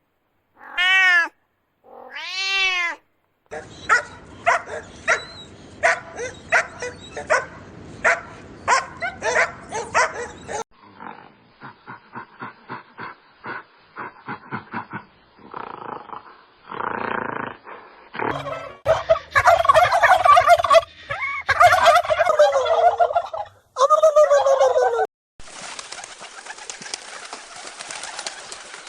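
A series of different animal calls one after another: three short arched calls at the start, then a long run of rapid repeated calls, a quieter stretch of quick clicking pulses, several loud wavering calls, and a steady hiss near the end.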